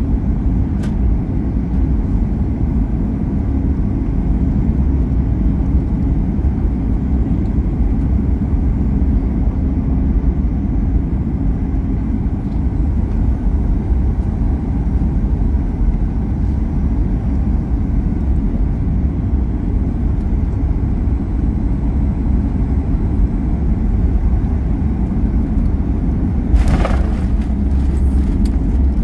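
Boeing 737 MAX 8 cabin noise at a window seat during the landing: a steady, loud low rumble of engines and airflow. Near the end comes a brief loud rushing noise, followed by a few faint clicks and rattles.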